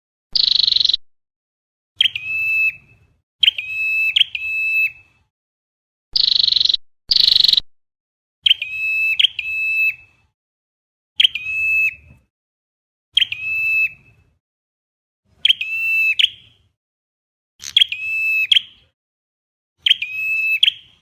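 Flowerpecker calls played as a trapping lure: sharp, high call notes, single or in quick pairs, repeating about every two seconds, with a few harsher buzzy notes near the start and about six seconds in.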